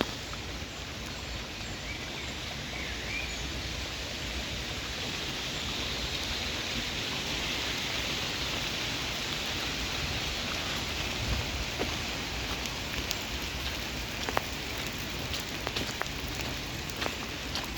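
Steady rain falling, an even patter of raindrops that swells a little in the middle, with scattered sharp drip ticks in the second half.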